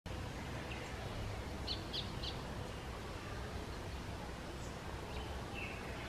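A few short, high bird chirps: three close together about two seconds in, and fainter single chirps near the end, over a steady outdoor background hiss and low rumble.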